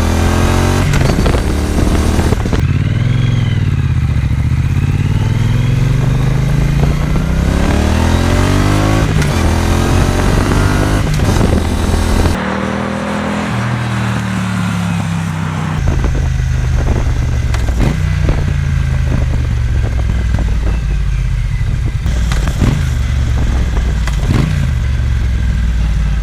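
Triumph Bonneville T120's 1200 cc parallel-twin engine through British Customs Sleeper Pro slip-on silencers, with the stock catalytic converter kept, heard from on the bike while riding. The engine note repeatedly rises under acceleration and drops back, as with gear changes and throttle roll-offs, and the sound changes abruptly about three and twelve seconds in.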